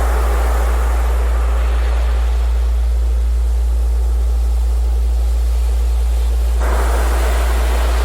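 A steady, loud low-pitched tone of the kind used as a Rife-frequency sound track, played over a recording of ocean surf. The surf hiss swells and recedes as waves wash in, with a fresh wave surging in suddenly about two-thirds of the way through.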